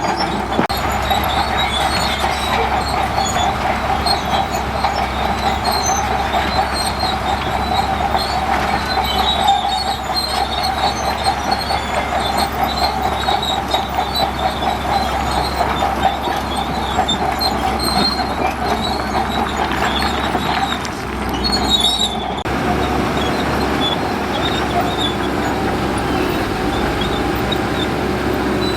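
Crawler bulldozer working in sand: a steady engine sound under the squeal and clank of its steel tracks. About 22 seconds in, the sound changes abruptly to a steadier machine sound with a held hum.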